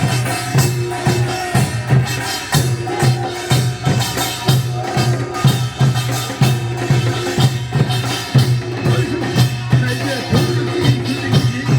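Korean folk percussion music playing a fast, steady beat of repeated strikes.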